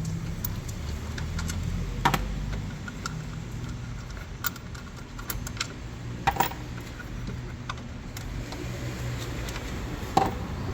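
Small metal clicks and clinks of hand tools and screws as screws are taken out, with sharper knocks about two, six and ten seconds in, over a low steady hum.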